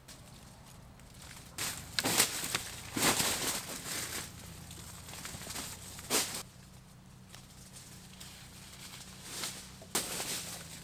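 Irregular rustling and crunching in dry leaves and brush: several short bursts, the loudest two to four seconds in, a sharp one about six seconds in and another near the end.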